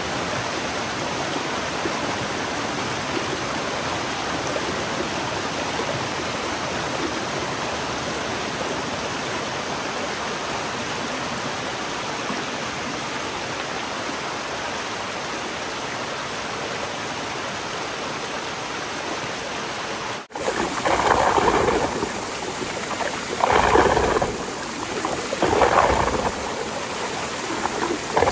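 Flowing water rushing steadily. About two-thirds of the way through there is a cut, and then three louder splashing swells.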